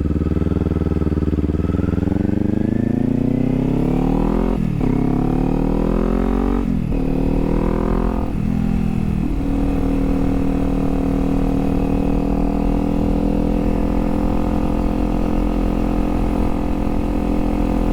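Kawasaki Z400's parallel-twin engine accelerating through the gears: its pitch climbs and drops sharply at three upshifts in the first half, then holds steady at cruising speed.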